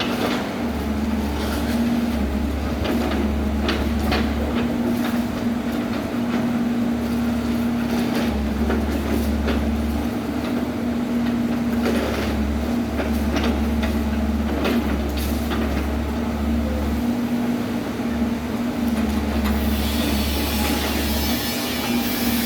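Excavator's diesel engine running steadily, with scattered sharp knocks and clatter as it works, and a hiss that comes up near the end.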